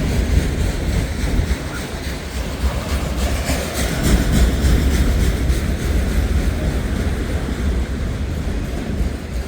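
Freight train rolling past at close range, its wheels clicking over the rail joints, with the clicking loudest about four seconds in.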